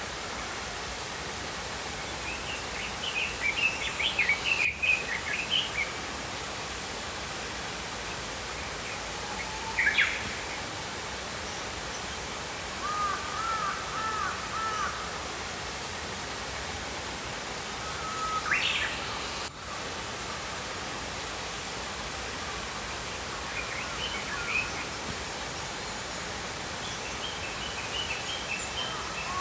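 Small birds chirping in short scattered phrases over the steady rush of a flowing stream. The water noise cuts out for an instant twice.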